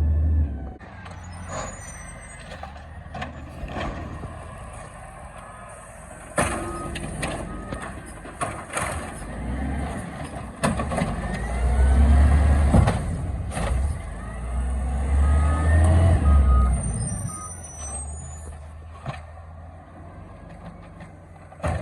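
Garbage truck at work: its engine rumbles and surges twice in the second half, with scattered clanks and knocks. A short run of beeps comes past the middle.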